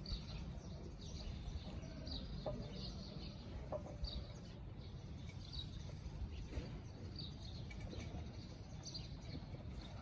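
Small birds chirping in short, repeated high calls over a low background rumble, with a couple of light clicks.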